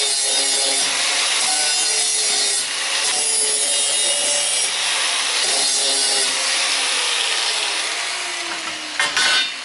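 Power grinder grinding the galvanized coating off the ends of steel pieces before tack welding. It gives a steady hiss of abrasive on metal, with the motor's pitch sagging at times as it is pressed in.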